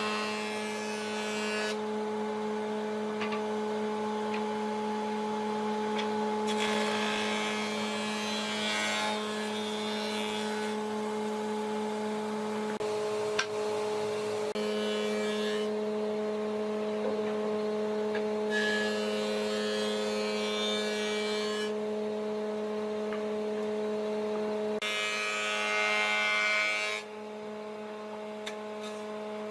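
Electric power tool's motor running at a steady pitch, with four stretches of loud hiss of a few seconds each as it works the wood.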